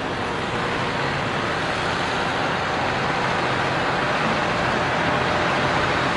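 Steady vehicle engine noise, growing slightly louder.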